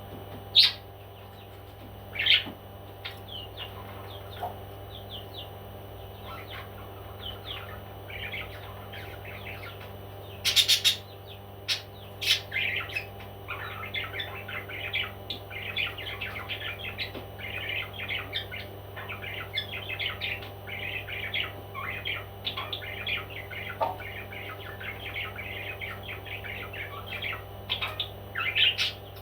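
Pet parrot chirping and twittering: a few loud, sharp single calls in the first dozen seconds, then a near-continuous run of quick chirps. A steady low hum runs underneath.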